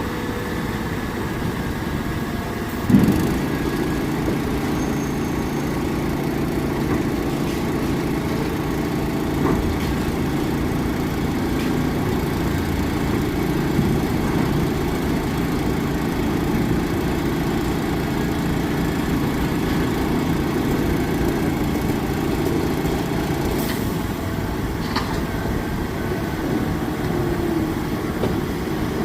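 Heavy diesel engines of dump trucks and earthmoving machinery running steadily at low revs, with one sharp thump about three seconds in.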